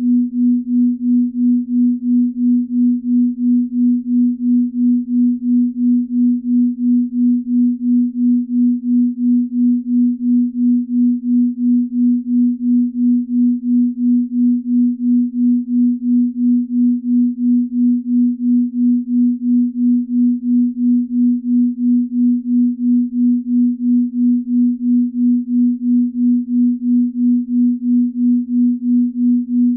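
Binaural-beat track: a steady electronic sine tone at about 250 Hz, pulsing evenly in loudness about two to three times a second, the beat between two slightly detuned tones.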